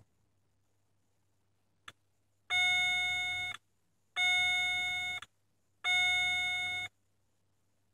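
Opel Vectra C instrument-cluster warning chime sounding three times, each tone about a second long and fading slightly, after a single click. It is the dashboard's fault warning while the car won't start, with its power-steering and engine fault messages.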